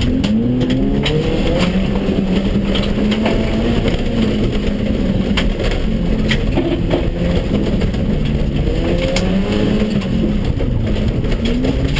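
Race car engine heard from inside the cabin, driven hard on a dirt track: its pitch holds steady for a few seconds, then climbs and falls repeatedly as the car accelerates and backs off. Occasional sharp ticks are heard over the engine.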